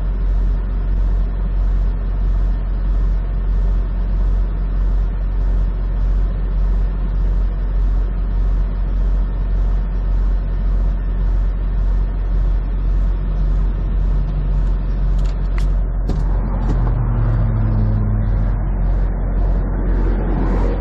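Semi truck's diesel engine idling steadily with a deep hum, and a brief extra low droning tone a few seconds before the end.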